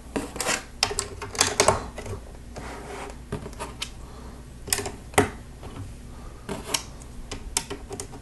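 Plastic Lego pieces clicking and clattering as they are handled and pressed onto the model, in irregular sharp clicks, several close together about a second in.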